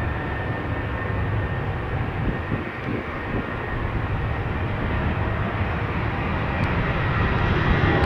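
Jet airliner's engines at takeoff thrust: a deep rumble with a steady high whine on top, growing louder toward the end.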